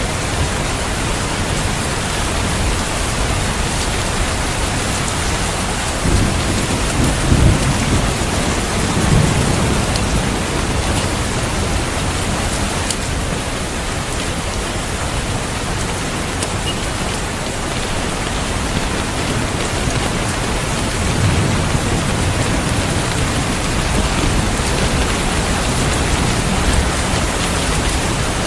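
Steady heavy rain, with low rolls of thunder rumbling twice, once starting about six seconds in and again near the last third.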